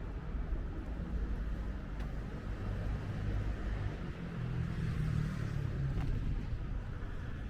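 A motor vehicle passes close by: a low engine hum swells through the middle and fades again, over a steady low rumble of wind and road noise.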